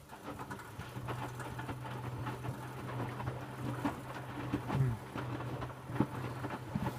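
Electrolux W455H commercial washing machine washing towels: a steady motor hum under the irregular sloshing and patter of water and wet laundry tumbling in the turning drum.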